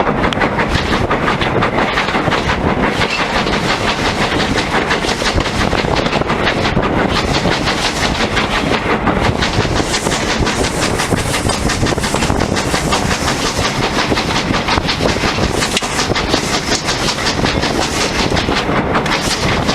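Train running along the track: steady loud wheel-and-rail noise with rapid fine beats.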